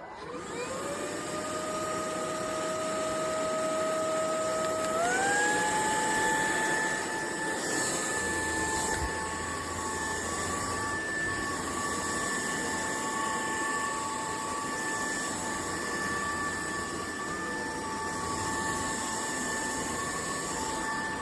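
Cordless stick vacuum (UNINELL UV3) switching on with a rising whine, then running steadily. About five seconds in, its motor steps up to a higher pitch, a change to a stronger power mode, and it runs on at that speed.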